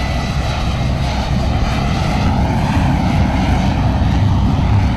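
Jet aircraft engine noise: a loud, steady roar with a faint high whine that falls slowly in pitch during the first couple of seconds.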